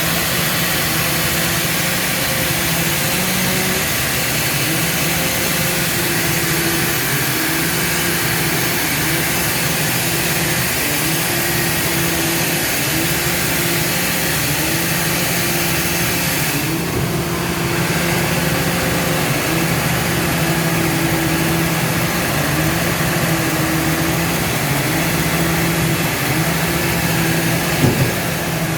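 Sawmill machinery running steadily: a loud, even hiss over a low hum. The hum has a faint pattern that repeats about once a second. The high hiss drops out briefly about two-thirds of the way through, and there is a short knock near the end.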